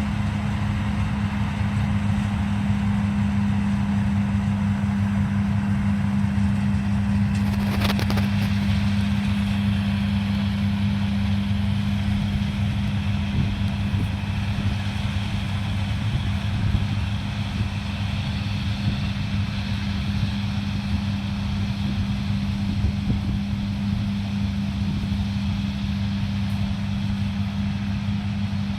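Farm machinery's diesel engine running steadily with an even hum, with a short burst of noise about eight seconds in.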